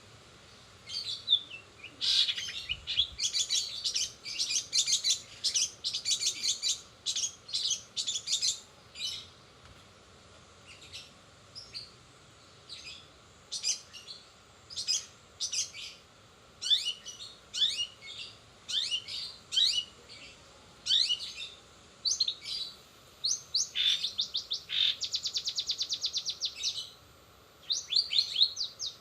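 Long-tailed shrike (cendet) singing a fast, varied song of sharp chirps and downward-sweeping notes, with a rapid trill near the end. The song is filled with mimicked calls of sparrows and canaries.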